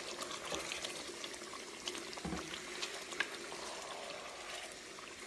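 Kofta curry simmering in a pan after a splash of boiling water: a steady bubbling hiss with scattered small pops and crackles.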